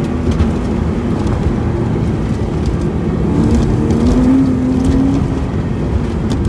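2009 Porsche Cayman's flat-six engine running under load during an autocross run, heard from inside the cabin over steady road noise. Its note climbs around the middle, then settles back.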